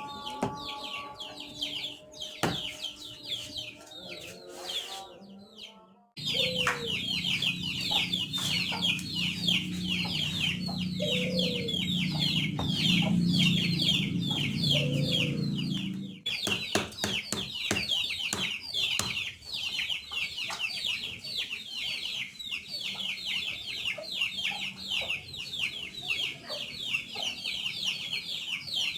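Birds calling rapidly and continuously, a dense run of high chirps, with a low hum underneath through the middle stretch.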